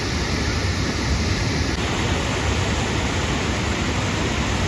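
Waterfall rushing: a loud, steady, even rush of falling water.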